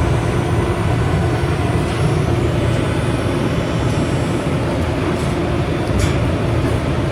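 Light rail train running, heard from inside the passenger car: a steady rumble of motion, with a couple of faint clicks near the end.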